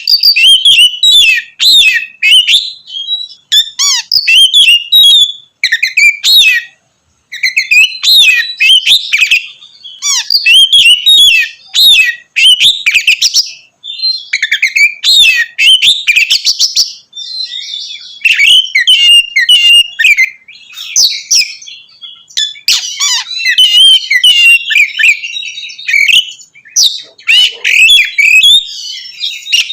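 Oriental magpie-robin (kacer) singing loudly in full 'ngeplong' song: a fast, almost unbroken run of varied whistles, chirps and trills, with a couple of brief pauses. This is the vigorous kind of song that provokes rival male magpie-robins.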